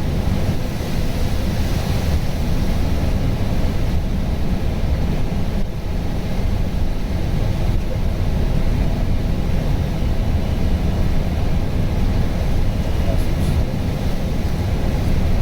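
Steady flight-deck noise of an Airbus A320 in descent on approach: a constant low rumble with a rush of air over it.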